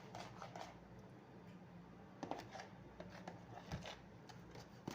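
Faint, scattered clicks and small knocks of kitchen utensils being handled, over a steady low hum.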